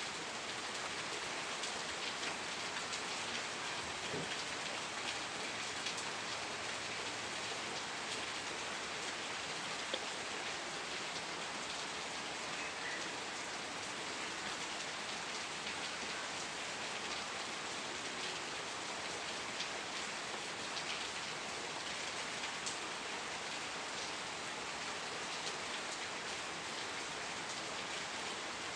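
Steady rain falling on a surface, an even hiss with many small drops ticking through it.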